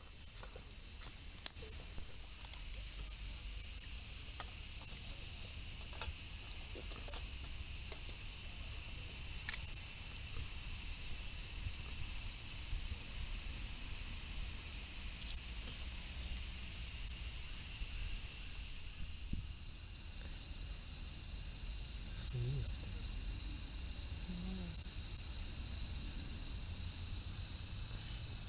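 A steady, high-pitched insect chorus, continuous throughout, with a few faint ticks.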